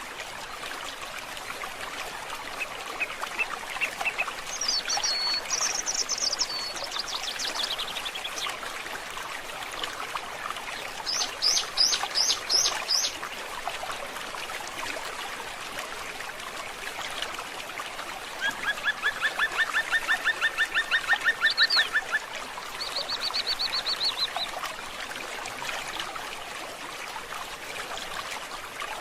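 Songbirds singing and calling over a steady trickling forest stream: several separate phrases, including a short run of quick high notes and a fast, even trill of about three seconds, followed by a shorter high buzzy trill.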